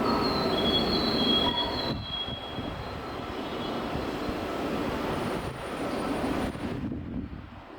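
E2 series Shinkansen train rolling through the station tracks, with high-pitched wheel squeal for the first two seconds over the rumble of the train. The rumble carries on and fades near the end.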